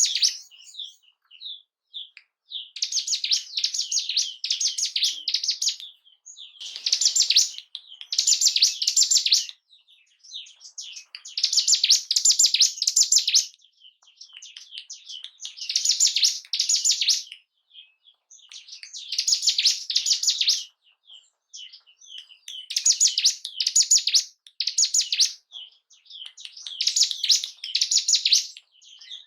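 Ciblek gunung, a prinia, singing: bursts of fast, high trilled song, each one and a half to two seconds long, repeating every three to four seconds with short chips between. It is a lure song, meant to stir a caged bird's breeding urge and aggression.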